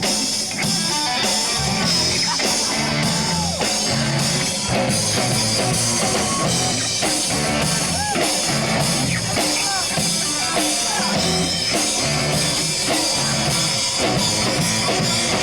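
A live rock band playing, with electric guitars over a drum kit keeping a steady beat.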